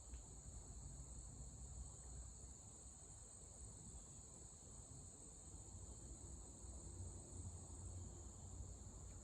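Near silence: a faint, steady high-pitched trill of crickets over a low background rumble.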